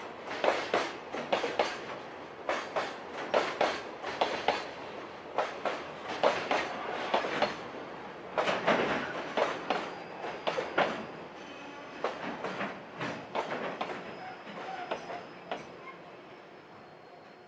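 Container wagons of a freight train hauled by an EF510 electric locomotive rolling over rail joints, a continuous clickety-clack of wheel clicks in groups. The sound fades over the last few seconds as the train moves away, and a faint steady high tone comes in near the end.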